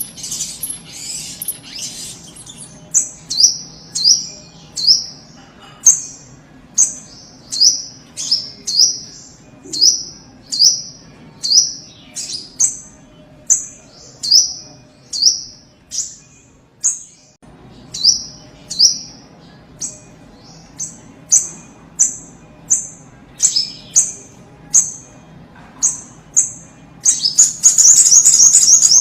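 Sogok ontong (spiderhunter) calling: a sharp, high note repeated about every 0.7 seconds, each dropping slightly in pitch. A rapid, dense burst of high chattering comes at the start and again near the end.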